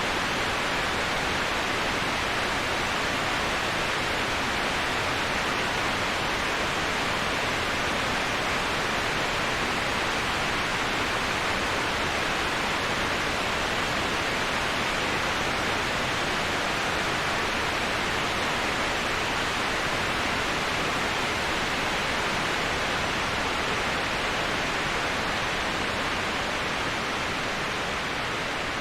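Steady rushing of a waterfall, an even, unbroken wash of falling water, dipping slightly in level near the end.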